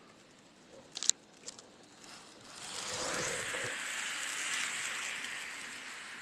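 Two sharp clicks, then a train running past: a broad rushing noise that builds about two and a half seconds in and holds.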